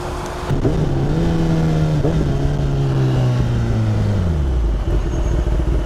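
Motorcycle engine catching about half a second in and running at a raised, steady speed. Around four seconds in its pitch drops over about half a second, and it settles into a lower, steady idle.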